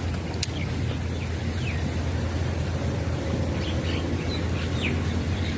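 Birds giving short, high, falling chirps a few times over a steady low outdoor rumble, with one sharp click just under half a second in.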